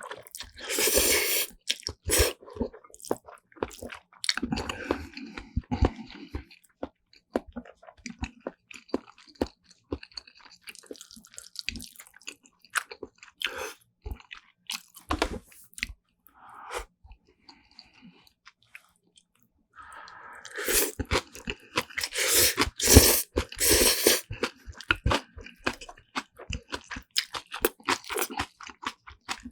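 Close-miked eating sounds: a person chewing and crunching a mouthful of Chapagetti black bean noodles and side dishes, with many sharp mouth clicks and crackles and a few louder, denser bursts of chewing, the longest about two thirds of the way in.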